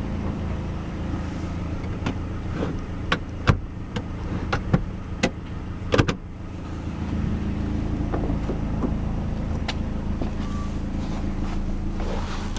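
Mazdaspeed3's engine idling as a steady low hum, with a string of sharp clicks and knocks from handling parts of the car's interior, most of them in the first half.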